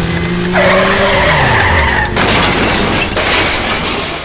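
A vehicle engine running and then dropping in pitch, with a tyre skid squealing over it. About two seconds in, an abrupt loud noisy burst sets in and fades: the sound of a motorbike accident.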